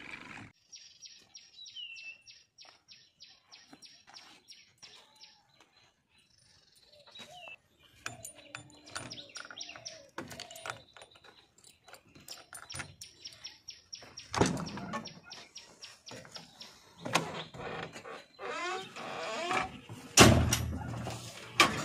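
A bird chirping in a quick, even series of high notes, about four a second. Clicks and knocks from a key turning in a JCB backhoe's cab-door lock and from the door being handled come between the chirps, with the loudest thump near the end as someone climbs into the cab.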